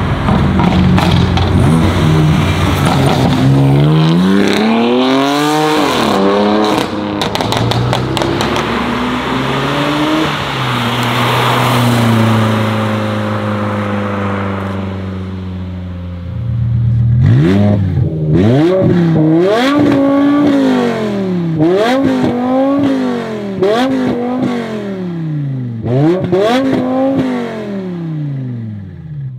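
BMW M car engines: in the first half, hard acceleration with the revs climbing and breaking at gear changes, then a steady drone; in the second half, a parked E60 M5's V10 revved in a series of about seven quick blips, each rising and falling.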